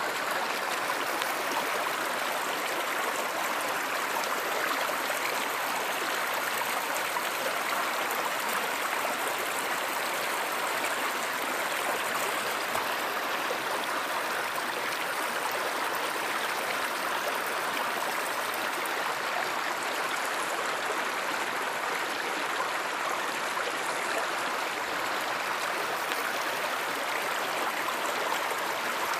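Steady rush of a flowing stream, an even wash of water noise with no breaks.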